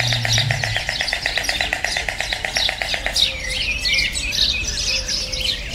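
Small songbirds calling: a fast, even trill for the first three seconds or so, then a busy mix of short, high chirps.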